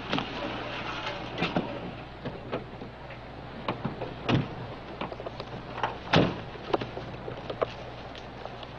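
Irregular footsteps crunching and knocking on dry ground and brush, a dozen or so scattered steps, two of them louder near the middle, over the steady hiss and hum of an old film soundtrack.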